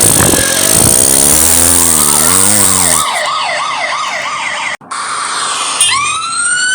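Cartoon sound effects: a loud noisy passage with wobbling tones, then a police siren wailing rapidly up and down. After a brief break near the end, a siren winds up, rising in pitch.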